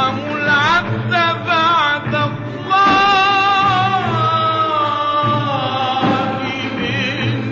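A male voice singing a melismatic Arabic religious hymn with instrumental accompaniment, the voice ornamenting quickly and then holding a long note in the middle.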